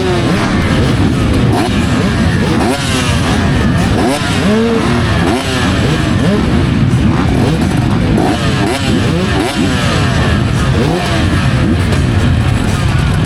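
Several motocross bikes running hard, their engine notes repeatedly rising and falling over one another as they rev up and shift.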